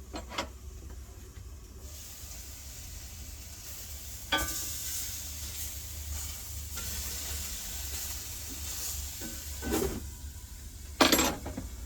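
Food sizzling as it fries in a hot pan, the hiss growing stronger about four seconds in, over a steady low hum. A few short, louder sounds cut in, the loudest near the end.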